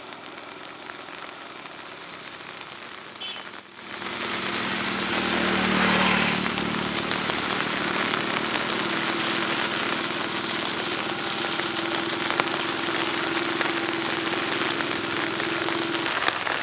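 Rain falling steadily, an even hiss that gets louder about four seconds in, with a faint low steady hum underneath.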